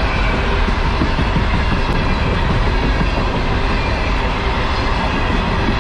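Herzog ballast cars of a freight train rolling past: a steady rumble of steel wheels on the rails, with a few wheel clicks.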